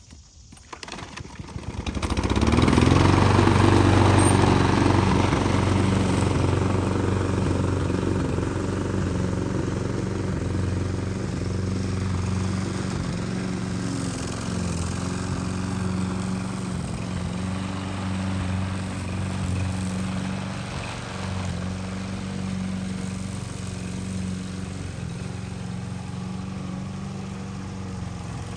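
Small petrol engine of a grass cutter starting about two seconds in, after a few clicks, then running steadily at high speed and slowly growing quieter.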